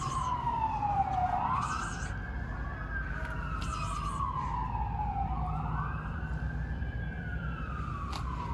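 Emergency vehicle siren in a slow wail, its pitch rising quickly and then sliding slowly back down about every four seconds, over a low steady rumble.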